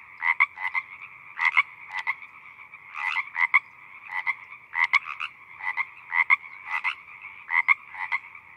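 A chorus of many frogs calling together, with a steady background of calls and louder short croaks from nearer frogs standing out irregularly, one or two a second.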